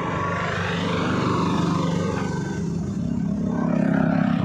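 A motor vehicle engine running with a steady drone, a little louder toward the end.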